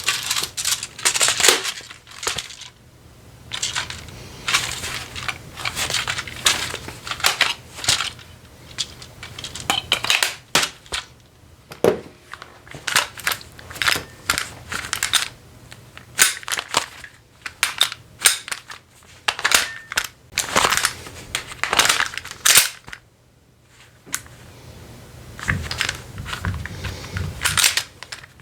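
An airsoft gun being handled and reloaded, a long run of irregular sharp clicks and clacks, some in quick bursts and some single, with a brief lull a little after two-thirds of the way through.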